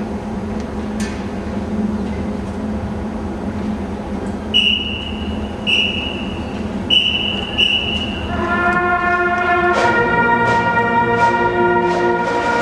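Marching band playing: a low held tone, then four short high notes, and about two-thirds in the brass comes in with full, sustained chords.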